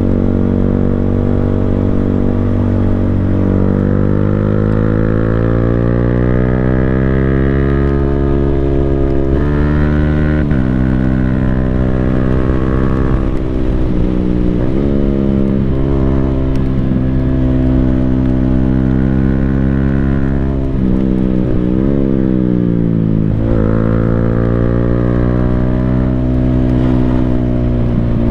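Yamaha Sniper 155R's single-cylinder engine running through an Akrapovic full-system exhaust while riding. Its pitch climbs steadily through the revs, then falls sharply at quick-shifter upshifts, first about ten seconds in and again several times later, before climbing again.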